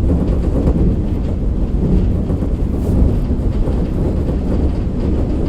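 Interior running sound of a KiHa 47 diesel railcar under way: a steady low rumble of engine and wheels on the rails, muffled by a phone carried in a pocket.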